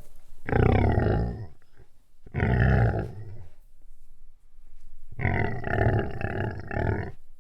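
An animal growling: three deep, rough growls, the third longer and pulsing.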